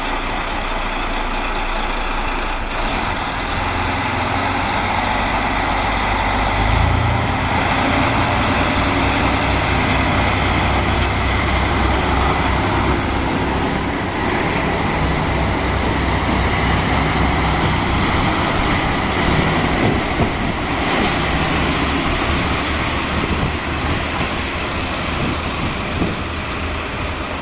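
Diesel railcar pulling out of a station: its engine revs up a few seconds in and steps up again, then drones on under the rumble and clatter of the train running on the rails as it gathers speed.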